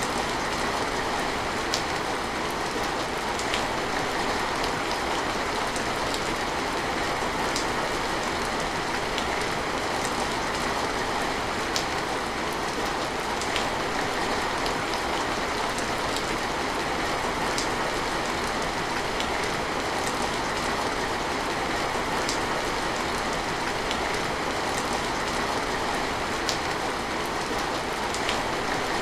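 Steady rain falling, with scattered sharp drips of drops striking a surface.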